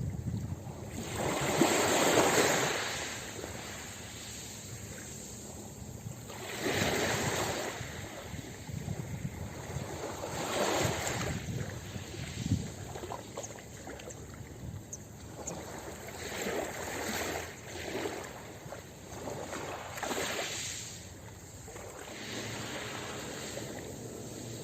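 Ocean waves breaking on a beach, a rush of surf swelling and fading every few seconds, the loudest about two seconds in.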